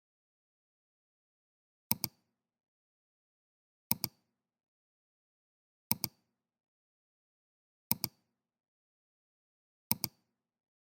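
Five short, sharp double clicks, evenly spaced about two seconds apart, over otherwise dead silence.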